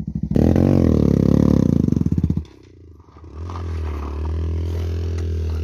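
Motorcycle engine revved hard for about two seconds, then dropping away, and running again at a steady throttle about a second later, as the bike is worked to free it from where it is stuck on a muddy, washed-out dirt road.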